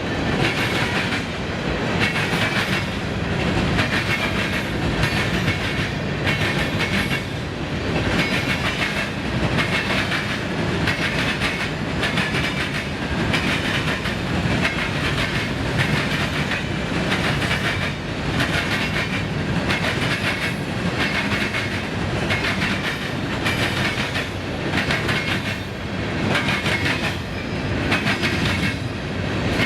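Freight train cars rolling past, wheels clacking over rail joints in a steady rhythm of about one clack a second over a continuous rumble.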